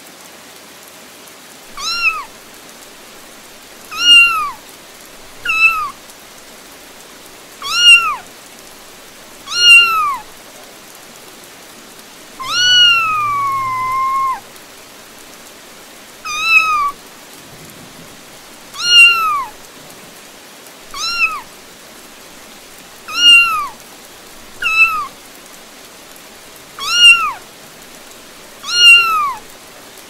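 A little cat meowing over and over, a short rising-and-falling meow about every two seconds, with one longer drawn-out meow about halfway through, over a steady hiss of rain.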